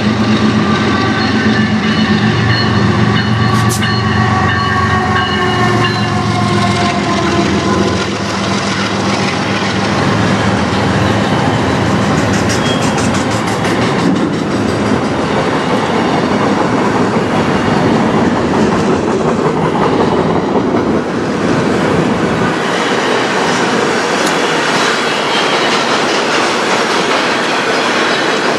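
A diesel freight locomotive passing close by, its pitched engine tones dropping in pitch as it goes past during the first several seconds. Then a long string of autorack cars rolls by with steady wheel-on-rail noise.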